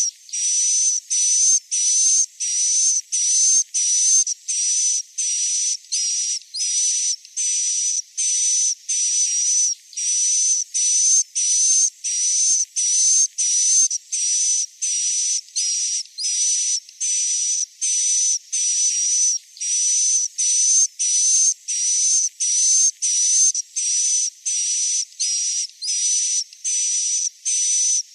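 Recorded swiftlet 'inap' (roosting) call played back as a lure: short, high, buzzy twittering calls repeating evenly, a little under two a second, each carrying a thin whistle-like tone, with no low end at all.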